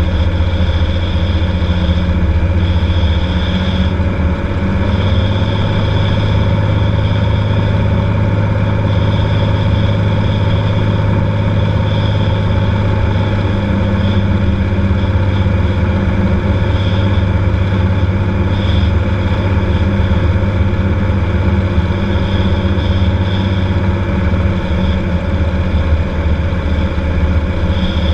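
Cessna 182's piston engine and propeller running steadily at low power, with an even, unbroken drone.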